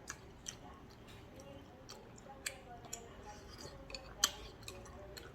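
Eating at the table: scattered sharp clicks of utensils against a bowl, about eight in all with the loudest a little past four seconds in, over faint chewing and faint voices.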